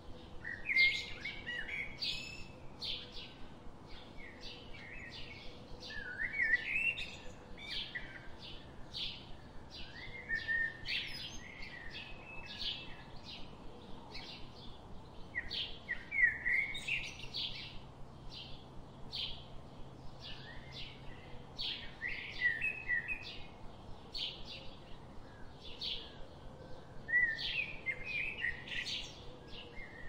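Birds chirping and singing: quick, high chirps about twice a second, with a longer warbled phrase every five seconds or so.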